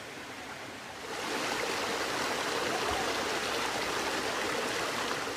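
Water rushing at a waterfall, a steady rush that grows clearly louder about a second in.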